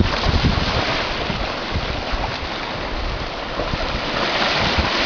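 Wind buffeting the microphone in uneven gusts over a steady rush of sea water and waves.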